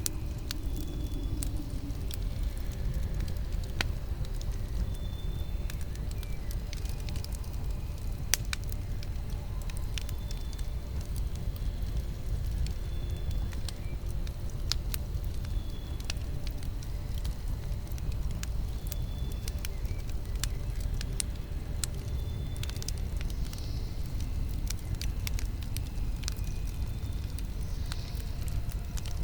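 Campfire burning: a steady low rush with scattered sharp crackles and pops, the loudest pop about eight seconds in.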